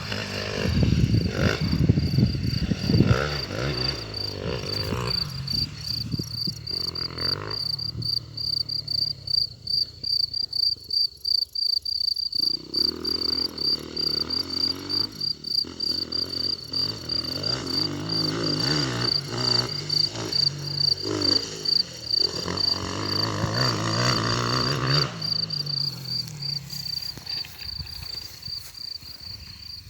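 Motocross motorcycle engines revving, rising and falling in pitch and loudness, over a cricket's steady, high, fast-pulsing chirp.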